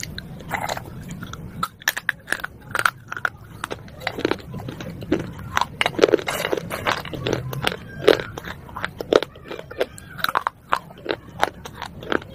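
Broken fired-clay pot shards being bitten and chewed close to the mouth: an irregular run of sharp, brittle crunches.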